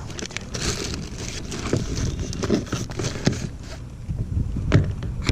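Wind buffeting the microphone in a steady low rumble, with a few sharp knocks, the loudest near the end.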